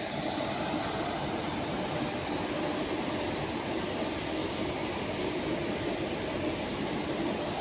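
Indian Railways ICF passenger coach running along the track: a steady rumble of wheels on rail.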